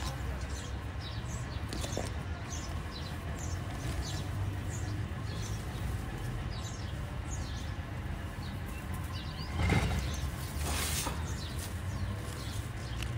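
Small birds chirping over and over in short, falling notes above a steady low rumble, with a louder rushing swell about ten seconds in.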